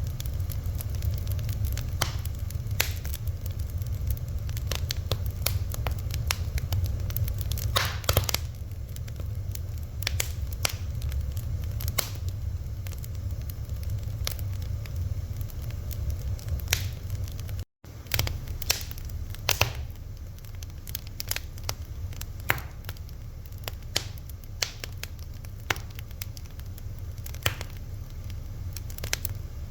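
Fire crackling, with irregular sharp pops and snaps over a steady low rumble. The sound cuts out for an instant a little past halfway.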